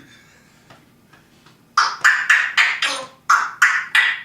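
African grey parrot making a fast run of short, harsh, noisy calls, about three a second, starting a little under two seconds in.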